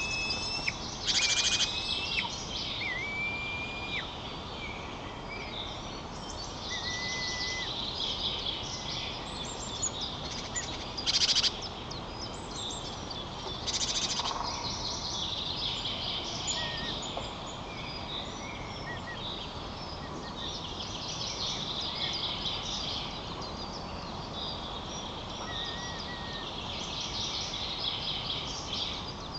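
Wild birds singing and calling outdoors in a dense, continuous chorus, with a few clear whistled notes in the first few seconds and single ones later. Three brief loud rustling noises cut in, about a second in, near the middle and just after.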